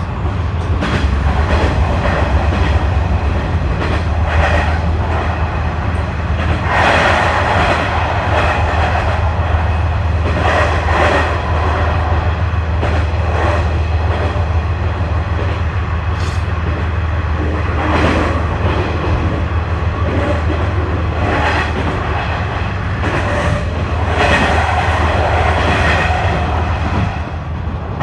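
KiHa 126 series diesel railcar running at speed through a tunnel, heard from inside the car: a steady low drone of engine and running gear with repeated clatter of wheels over rail joints. The noise drops a little near the end as the train leaves the tunnel.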